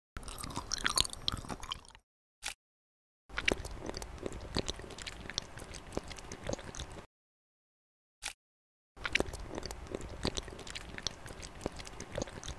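Soft, wet mukbang chewing and squishing of custard pudding, in three stretches of a few seconds each with dead silence between them.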